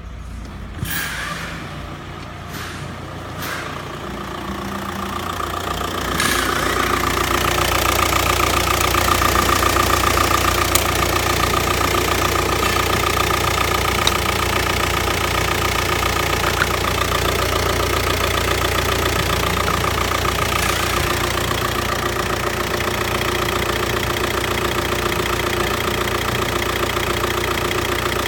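An Audi A6 C6's 2.0 TDI BRE four-cylinder pump-injector diesel running. There are a few knocks in the first seconds, then the engine gets louder and settles to a steady idle from about six seconds in.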